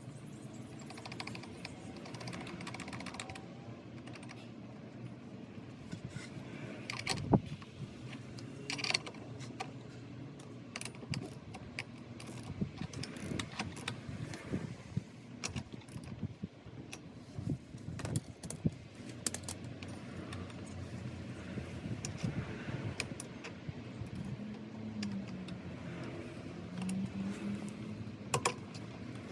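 Hand tools and small metal parts clicking and clinking, on and off, while a scooter's clutch is worked on, with one louder knock about seven seconds in.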